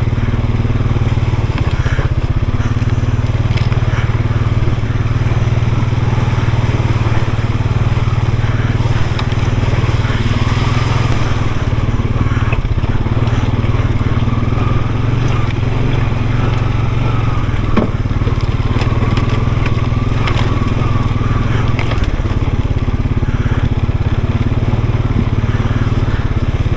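Off-road vehicle engine running steadily at low speed, with the tyres crunching and clattering over a rocky creek bed.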